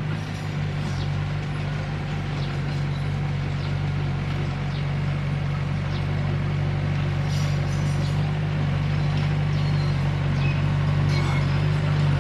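Komatsu D21P bulldozer's diesel engine running steadily, growing slightly louder, with faint scattered ticks over the hum.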